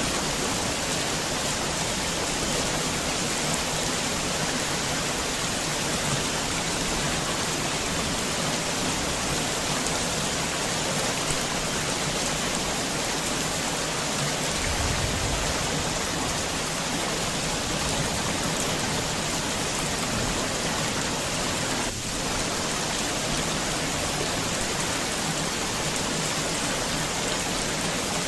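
Heavy rain falling steadily, a dense even hiss of drops on surfaces, with a brief low rumble about halfway through.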